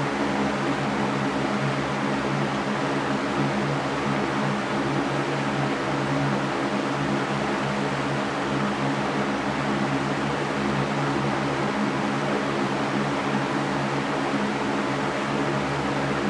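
Electric fan running steadily: an even whooshing rush of air with a constant low motor hum beneath it.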